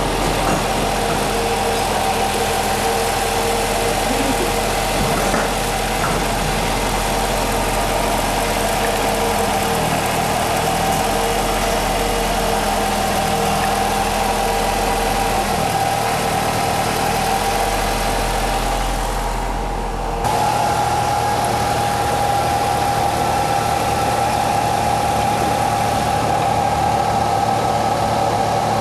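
Nissan X-Trail T32 drivetrain running with the wheels turning: a steady hum with a whine on top. About twenty seconds in it dips briefly, then steps up a little with a shift in the whine's pitch. The mechanics trace this hum to a worn right wheel hub bearing.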